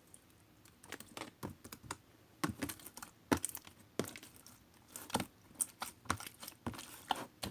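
Slime being squished and kneaded by hand, making irregular sticky clicks and pops, several a second.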